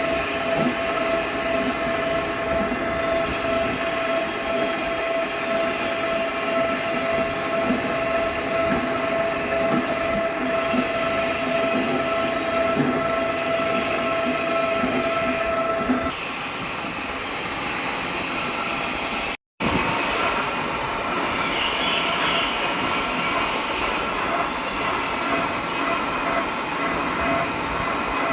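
Metalworking machine tool, such as a drilling machine, running steadily with a constant high whine over a rumble of mechanical noise. The whine stops and the sound changes about halfway through, then cuts out for a split second before the running resumes.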